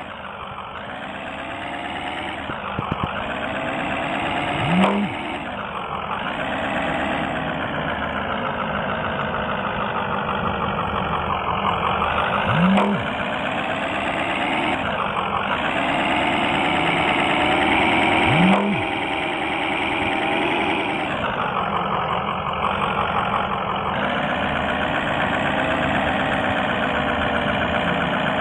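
Military truck engine running, its pitch rising and falling several times as it revs and eases off. Three short, loud, upward-bending sounds stand out about five, thirteen and nineteen seconds in.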